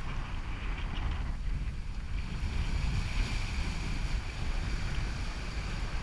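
Wind buffeting the microphone in a steady low rumble, over the hiss of water rushing past a sailboat's hull under way at sea.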